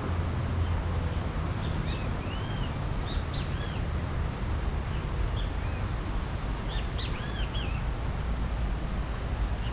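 Small birds chirping in short bursts of quick arched notes, a few clusters a couple of seconds apart, over a steady low outdoor rumble.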